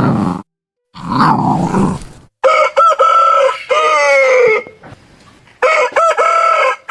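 Rooster crowing twice, a cock-a-doodle-doo of short notes ending in a long falling one; the first crow starts about two and a half seconds in and the second runs on past the end. Before that come two low, rough grunting sounds from another animal.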